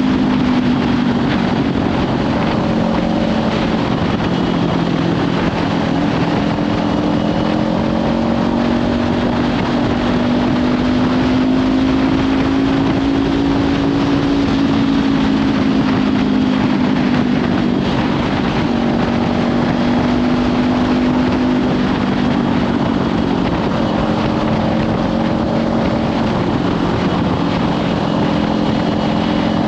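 Kawasaki Ninja 500 parallel-twin engine running at a steady cruise through a Leovince slip-on exhaust, its note drifting slowly up and down with the throttle. Heavy wind rush on the microphone runs underneath.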